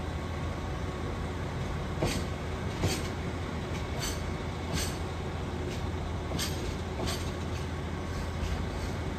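A diesel train rolling slowly through the station with a steady low engine hum, its wheels clacking over rail joints in sharp pairs every couple of seconds.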